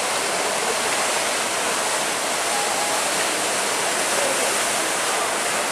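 Steady, even rush of breaking surf and churning seawater, with no rise or pause.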